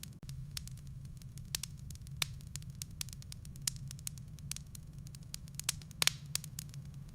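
Wood fire burning in a fireplace: irregular sharp crackles and pops over a steady low rumble of the flames, with a louder burst of pops about six seconds in.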